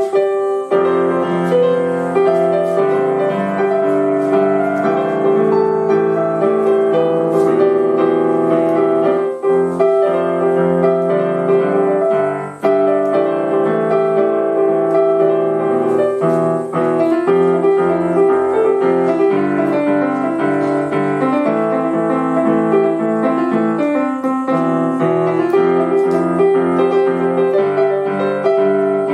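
A public station piano being played: a continuous piece of melody over chords, with sustained notes.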